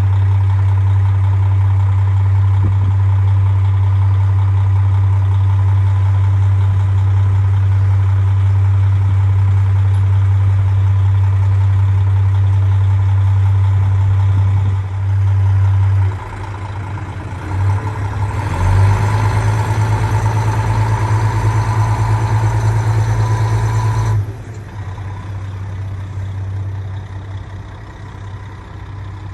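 A train's engine idling with a steady low hum. From about 18 seconds the train runs louder, with a slowly shifting whine, and that cuts off abruptly around 24 seconds, leaving a quieter hum.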